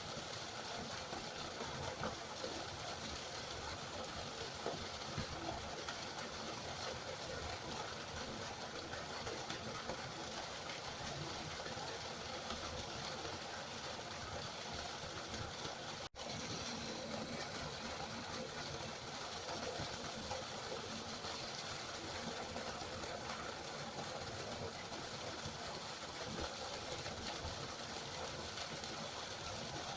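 River water flowing in a steady, even rush, cutting out for an instant about halfway through.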